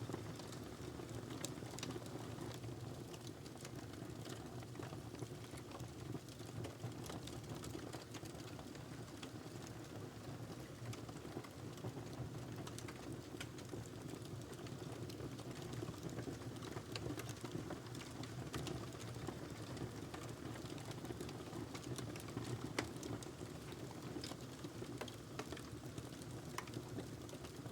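Burning log crackling in a fireplace: a steady low rush of fire with frequent small pops and snaps, and one louder pop a few seconds before the end.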